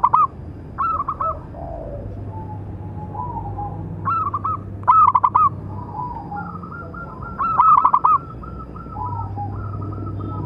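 Zebra dove (local perkutut) cooing: several loud, quick-bubbling coo phrases a second or few apart, with fainter, lower coos in between.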